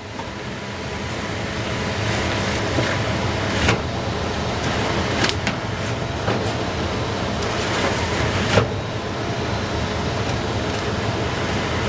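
Furnace blower fan running steadily, air drawn through a restrictive old air filter that holds back the airflow. There are a few sharp clicks along the way.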